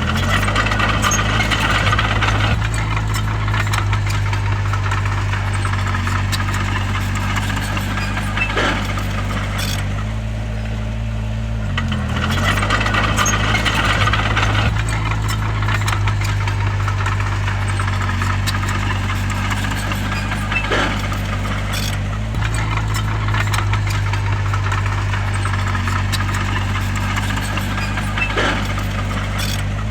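Crawler bulldozer's diesel engine running steadily, its pitch dipping briefly and recovering about twelve seconds in, with scattered knocks and rattling.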